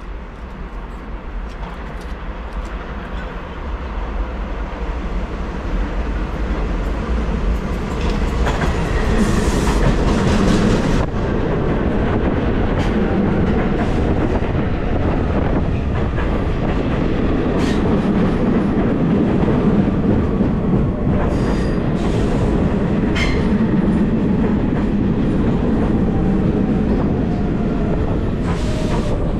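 A train approaching and passing on the track, growing louder over the first eight or nine seconds and then holding a steady, heavy rumble of wheels on rail with scattered sharp clicks. A faint falling whine runs under it near the end.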